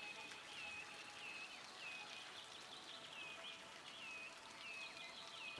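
A small bird calling faintly and repeatedly: short high chirps, each sliding downward, about two a second, over a soft outdoor background.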